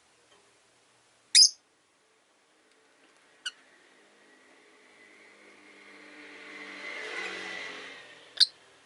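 Rosy-faced lovebirds giving short, sharp, high chirps: one loud one, then a fainter one, then another near the end. Between them a car passes outside, its sound rising and then fading.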